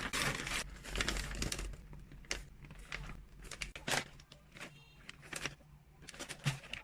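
Plastic packaging for freeze-dried cat treats crinkling as it is handled. Dense crinkling for about the first second and a half gives way to sparser, softer crinkles and clicks.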